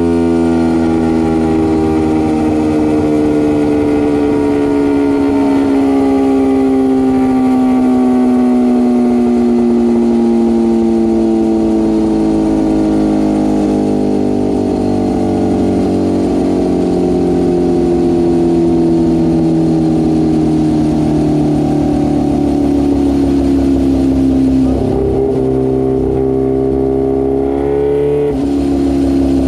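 Kawasaki Ninja H2R's supercharged inline-four engine running hard on a dynamometer, held at high revs with its pitch sinking slowly for most of the stretch. Near the end the note dips briefly and then picks up a little.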